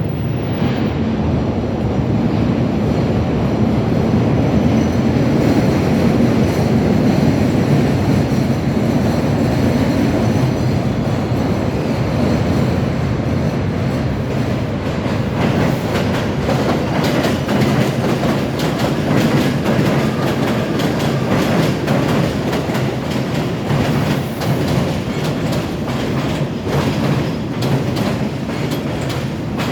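Elevated subway train running on the overhead tracks, a loud steady rumble with a rapid clatter of wheels over the rail joints that grows more distinct from about halfway.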